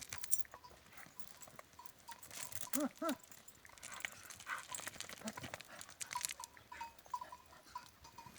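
Two short, quick animal cries about three seconds in, over scattered scuffling and rustling.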